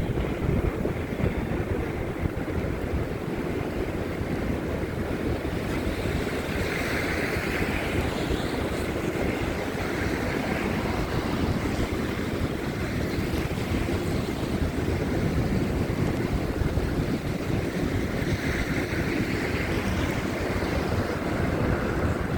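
Wind buffeting a phone's microphone in a snowstorm: a steady rushing noise that swells twice, a few seconds in and again near the end.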